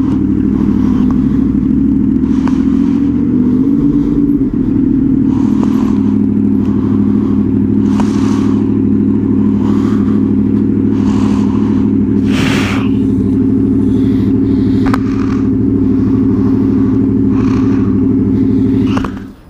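Honda VFR800 Interceptor's V4 engine running at a steady speed under way, with a brief change in pitch about four seconds in. It cuts off suddenly near the end.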